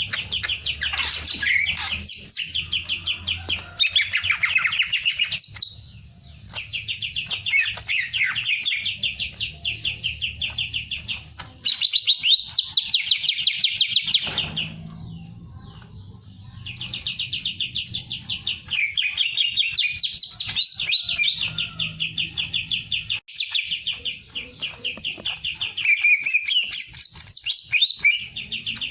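A songbird singing long, fast trills of rapid repeated notes in phrases several seconds long, with brief pauses between phrases, over a faint low hum.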